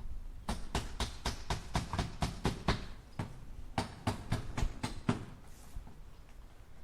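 Hammer tapping nails into wood: two runs of quick, even strikes, about four or five a second, with a short pause between them, trailing off into faint taps near the end.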